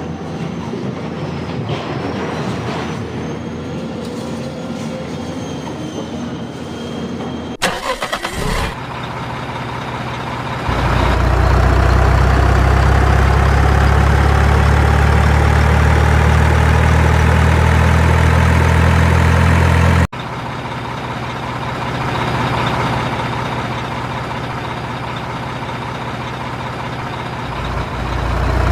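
Truck engine: a short rattling start-up burst about eight seconds in, then the engine running loud and steady. The sound cuts abruptly a little past the middle to a quieter engine, which grows louder again near the end.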